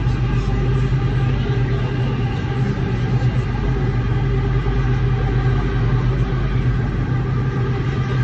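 Underground metro train giving a steady low rumble with a constant hum.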